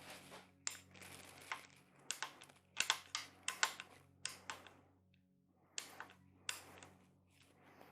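Irregular sharp clicks and taps of hydraulic lifters being worked out of a Chevy 350 small-block and handled. The clicks are bunched from about two to four and a half seconds in, with a few more around six seconds.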